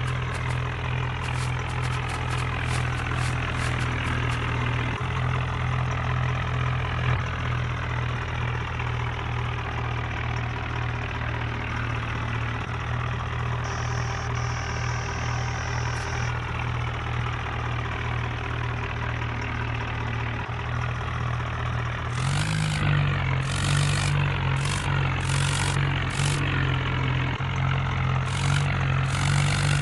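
HMT tractor's diesel engine idling steadily. About three-quarters of the way through, its speed picks up a little and it grows louder, with short bursts of high hiss coming and going.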